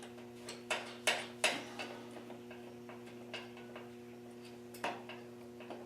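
Irregular clicks and light metal knocks from hand tools and hardware being handled while the mini bike's seat is bolted on, loudest about a second in, over a steady electrical hum.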